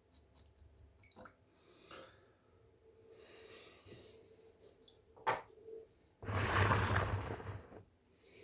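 Water being worked by hand while round gobies are scaled under water: scattered small clicks and scrapes, a sharp knock just past five seconds, then a loud rush of splashing water lasting about a second and a half.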